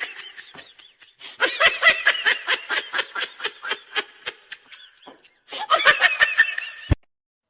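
Someone laughing hard: a long run of quick high-pitched ha-ha-ha pulses that fade, a breath-like pause, then a second burst of laughter. A short sharp click comes near the end.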